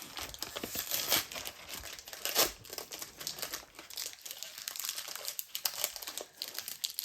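Foil wrapper of a Lorcana trading-card booster pack being crinkled and torn open by hand: a quick run of crackles, with two louder ones about a second and two and a half seconds in.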